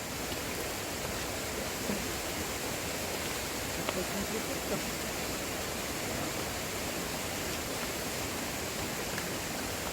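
Steady rushing hiss, even and unbroken, with a few faint voices in the background.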